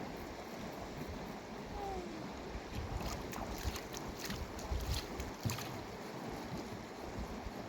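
River water running, with a cluster of splashes and knocks about three to five seconds in, and low buffeting of wind on the microphone.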